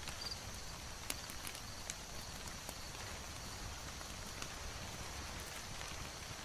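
Crackling fire: a steady soft hiss with scattered sharp pops about every second.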